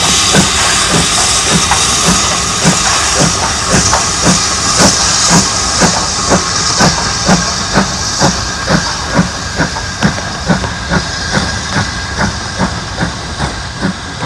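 BR Standard Class 9F steam locomotive under way, its exhaust beating sharply about two and a half times a second over a strong hiss of steam, growing fainter toward the end as it draws away.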